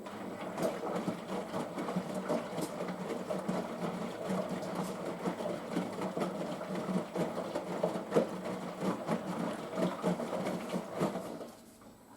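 Washing machine drum tumbling during the pre-wash: the motor runs steadily while the wet load sloshes and knocks inside the drum. The tumble starts suddenly and stops about a second before the end.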